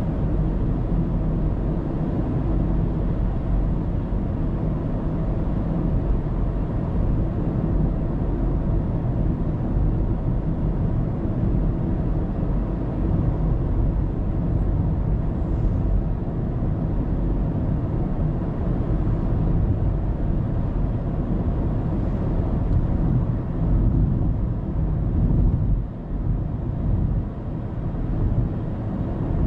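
Steady low rumble of a car's road and engine noise as it drives along, picked up by a dashcam inside the cabin, dipping briefly near the end.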